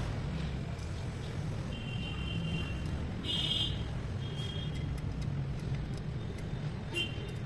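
Freshly rebuilt single-cylinder diesel engine of a Royal Enfield Diesel Bullet idling steadily, with a few short high-pitched chirps over it.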